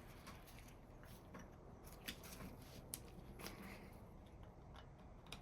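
Near silence with a few faint clicks and light scraping as vise parts are handled while a part is worked into its thread.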